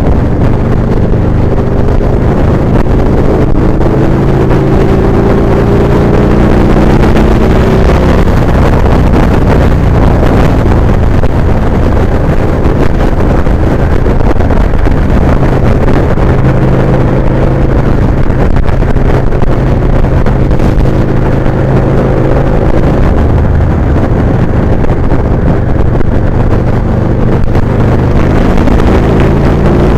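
Victory Vegas 8-Ball motorcycle engine running steadily while riding at cruising speed, with wind buffeting the microphone.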